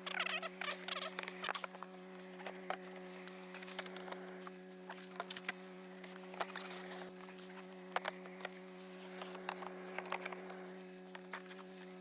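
Scattered light clicks, taps and rustling as gear is handled and packed, over a steady low hum.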